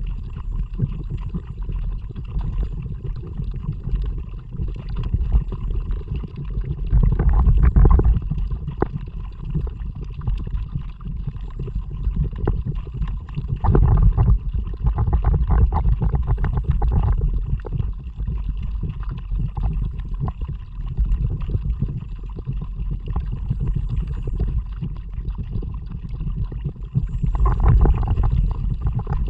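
Kayak moving through water: water sloshing and splashing against the hull and paddle over a steady low rumble, swelling louder a few times.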